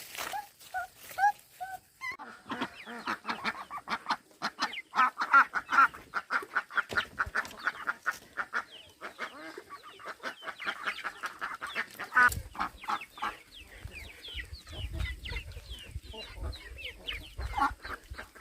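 Chickens clucking, with a dense run of many quick calls that thins out in the second half. A low rumble joins about twelve seconds in.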